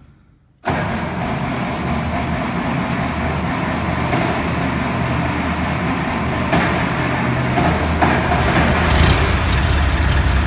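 International Harvester 1586 tractor's six-cylinder diesel cold-starting after sitting about a week: it starts abruptly under a second in and runs steadily, its low rumble getting stronger near the end.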